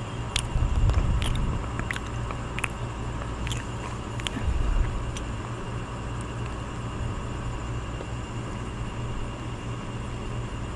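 Crunchy food being chewed with dentures close to the microphone: a run of crisp crackles and crunches in the first few seconds, with two heavier low thumps, over a steady low background hum. The crunching stops about halfway through and only the hum remains.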